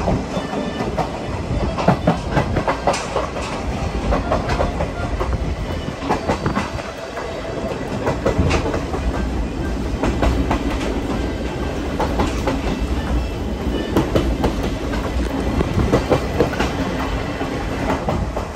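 Passenger coach of a steam-hauled train running along, with a steady low rumble and many sharp clicks and knocks as the wheels cross the rail joints and the carriage rattles.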